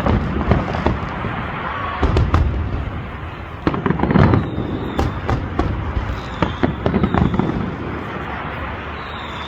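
Fireworks display: a rapid series of shell bursts going off one after another, over continuous crackling.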